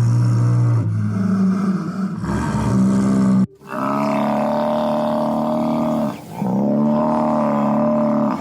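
Long, low calls from a large animal, loud and pitched: one call runs for about three and a half seconds, then after a sharp break come two long, even calls of about two and a half seconds each.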